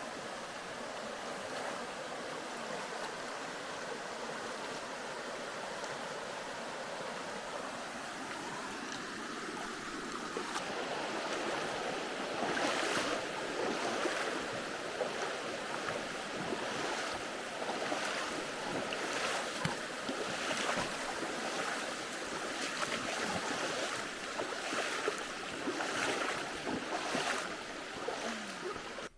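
River water rushing steadily. From about ten seconds in, footsteps come through it at about one a second as someone walks across.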